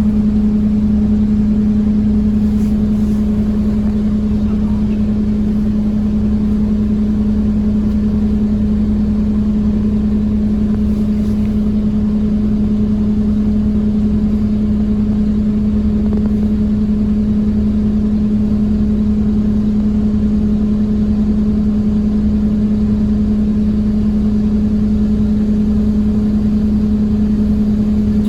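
Scania OmniCity single-deck bus heard from on board, cruising at a steady speed: a constant droning tone over low engine and road rumble.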